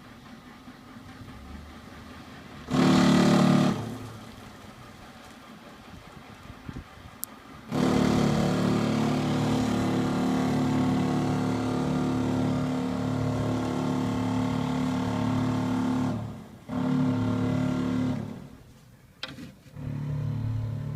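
A recurring early-morning alarm heard from inside a bedroom: loud droning blasts with a low, stepped pitch pattern. There is a short blast about three seconds in, a long one of about eight seconds, then two shorter ones near the end.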